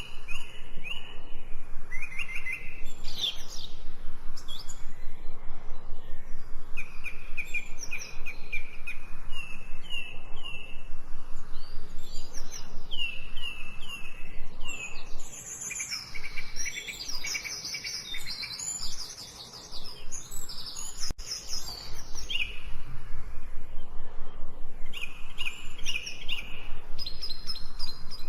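Several songbirds singing, with overlapping phrases of quick repeated chirps and trills throughout, over a faint steady background hiss.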